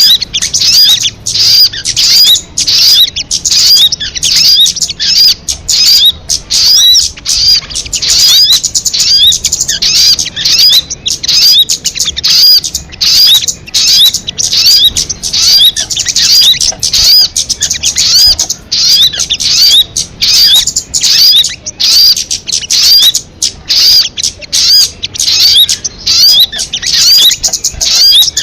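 Sogon bird calling: an unbroken series of high, hooked chirps repeated about one to two times a second.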